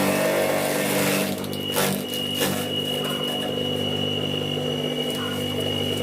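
Homemade grass chopper driven by a secondhand Sanyo water-pump motor running: a steady electric hum, joined about a second and a half in by a steady high whine, with a couple of knocks around two seconds in.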